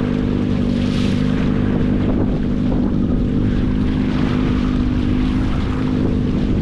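Small motorboat's outboard engine running steadily at wide-open throttle, with wind noise on the microphone.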